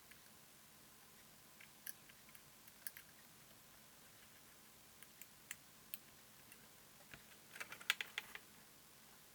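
Small, sharp clicks and taps of tools and parts being handled at a workbench, scattered and sparse, with a quick cluster of them near the end.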